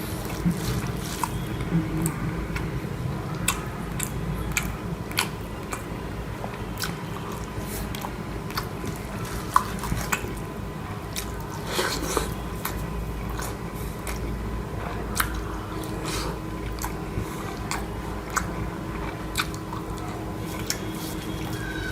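Close-up eating sounds: chewing and biting on egg curry with rice, with irregular wet smacks, clicks and squishes from the mouth and food.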